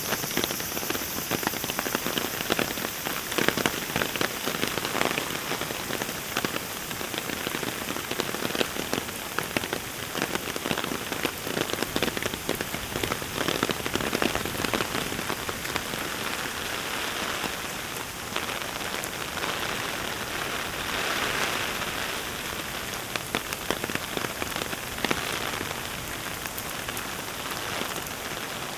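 Heavy rain falling steadily, with many distinct close drops standing out against the wash of the downpour.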